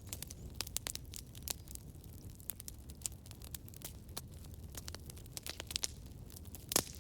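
Campfire burning: irregular sharp crackles and pops of burning wood over a low steady rumble, with one louder pop near the end.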